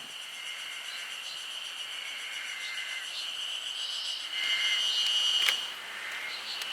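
Cicadas singing in a steady, high, unbroken drone, swelling louder for about a second past the middle and cut by a sharp click.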